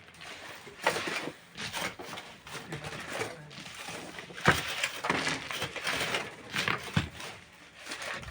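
Miners' hand tools working stone and sand: a few sharp knocks, about a second in, midway and near the end, with scraping noise between.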